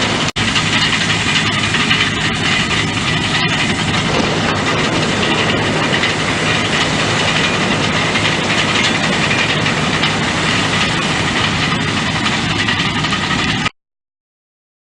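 Engine of a sand-moving earth mover running steadily and loudly at close range. The sound cuts off suddenly near the end.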